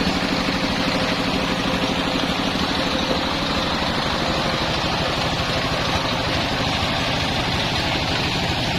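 The engine of a homemade circular sawmill running steadily, with a fast, even low pulsing.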